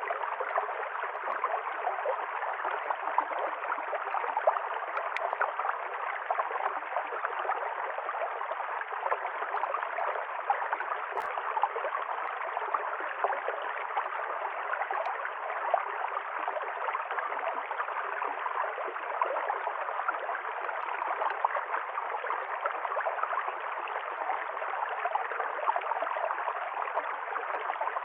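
River stream flowing: a steady, even rush of running water.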